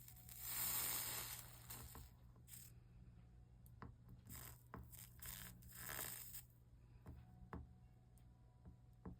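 Stained glass soldering work: short hissing bursts, the loudest about a second in and more between about four and six seconds, with several small clicks and taps of the iron and solder on the glass.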